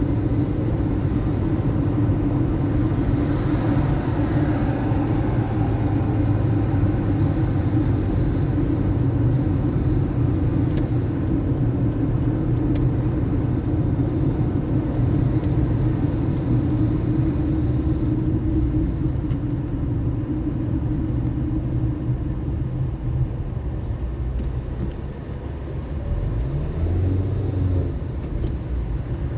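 Car being driven through city streets: a steady rumble of engine and road noise, with the engine note rising briefly as it accelerates near the end.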